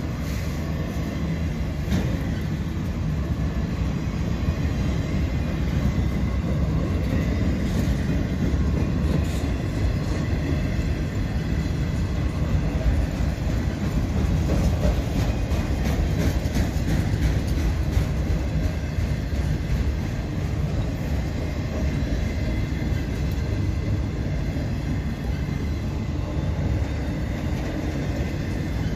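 Freight train of autorack cars rolling past: a steady rumble of steel wheels on rail, with scattered clicks as wheels cross rail joints.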